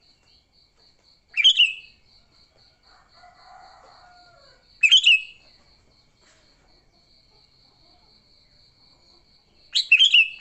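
Sooty-headed bulbul giving short, loud bursts of its calls: one about a second and a half in, one about five seconds in, and a quick double near the end. An insect chirps in steady pulses, about four a second, underneath.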